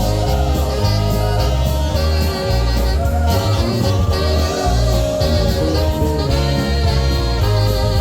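Live polka band playing a polka, with a steady pulsing bass beat under the melody.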